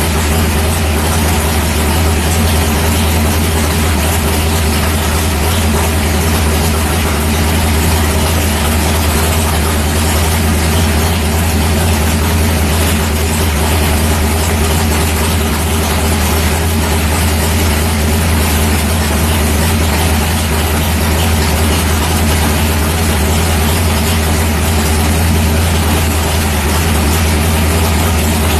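Big-block Ford V8 in a 1964 Fairlane, fed by a 1050 Dominator carburetor, idling steadily as it warms up after a carburetor jet change.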